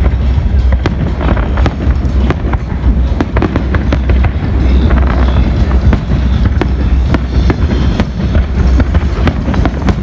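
Fireworks display: a rapid, irregular run of bangs and crackles over a continuous low rumble.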